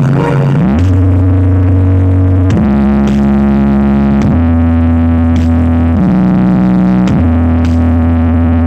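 Very loud music from a carnival 'horeg' sound system: heavy bass notes held for one to two seconds each, stepping to a new pitch with short slides between them.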